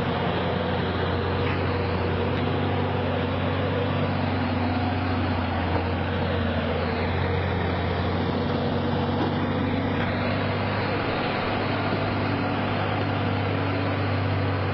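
A heavy vehicle's engine running steadily: an even low hum that holds the same pitch throughout.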